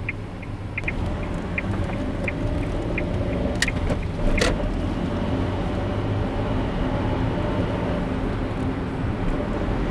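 Car driving on a city road, heard from a dashcam inside the car: a steady rumble of road and tyre noise. Regular light ticks come about every 0.7 s for the first three seconds, and two sharp clicks follow about a second apart near the middle.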